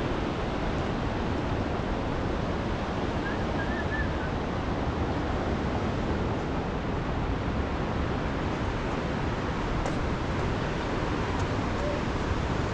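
Steady, even rushing noise that holds one level throughout, with a few faint high chirps about three seconds in.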